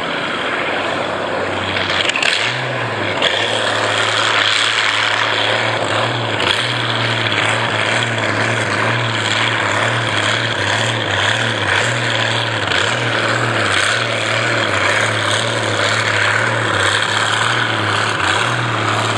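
A pulling tractor's engine running loud and steady under a dense exhaust roar. Its pitch rises a step about two seconds in, then holds with slight wavers.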